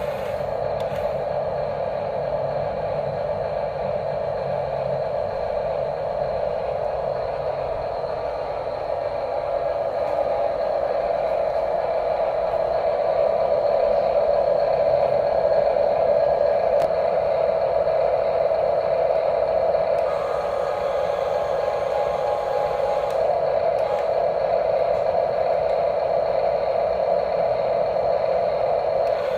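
Small electric motors and plastic gearboxes of RC toy construction machines whirring steadily, with light clatter and scraping. The sound gets somewhat louder about a third of the way in.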